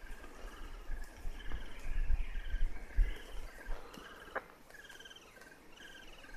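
Young birds in a tree nest calling with short, repeated chirps, two or three a second, over a low rumble that dies away about halfway through, with a couple of sharp clicks.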